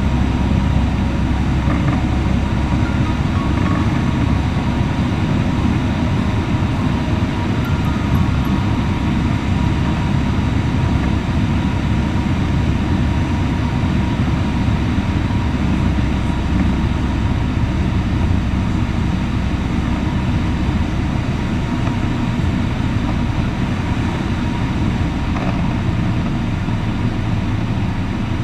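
Cessna 152 light aircraft, its four-cylinder Lycoming piston engine and propeller running steadily in flight with no change in power.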